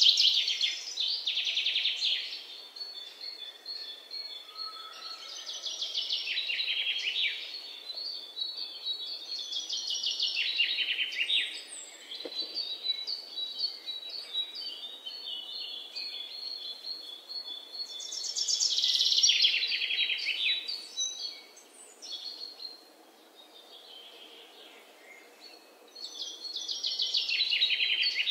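Songbird singing: short, rapid trilled phrases repeated every few seconds, with thin, high, steady notes in between.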